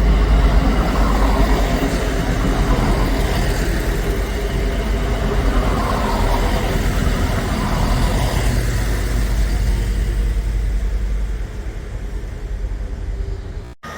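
Diesel train running through the station, a steady low engine rumble mixed with wheel and rail noise, easing a little near the end before breaking off abruptly.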